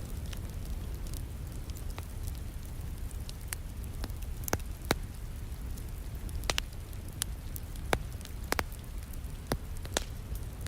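Wood fire crackling in a fireplace, with about a dozen sharp, irregular pops, over a steady hiss of falling rain.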